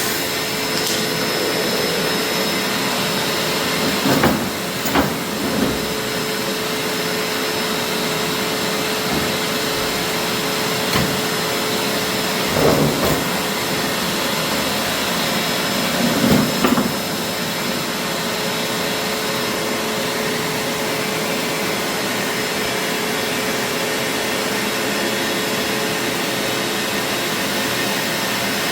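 A machine running steadily: an even whooshing noise with a constant hum underneath. A few short, louder bumps or rattles come about four to six seconds in, again around thirteen seconds, and once more around seventeen seconds.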